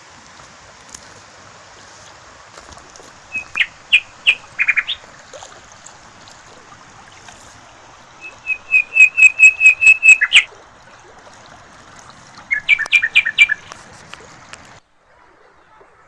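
A bird calling in three bursts of rapid, repeated sharp notes, over a faint steady hiss. The sound cuts off abruptly near the end.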